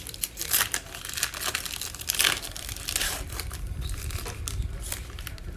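Crinkling and tearing of a plastic trading-card pack wrapper being opened and handled, in irregular crackles.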